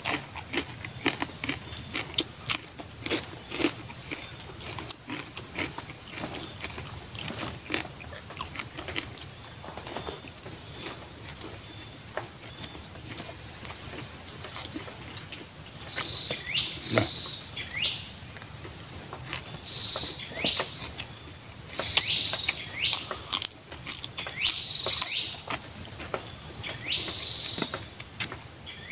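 Close-up chewing and crunching of crispy skin crackers (kerupuk kulit) and leafy greens, many sharp crunches throughout. Behind it, birds chirp repeatedly and a steady high insect drone runs.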